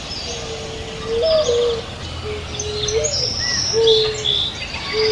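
Doves cooing in low, drawn-out notes repeated about once a second, with small songbirds chirping and trilling in short high calls over them.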